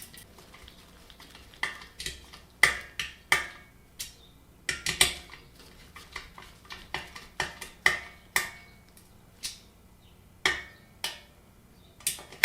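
Irregular sharp metallic clicks and clinks, each ringing briefly: screws and a metal blade iron being handled and hand-tightened onto a ceiling fan motor.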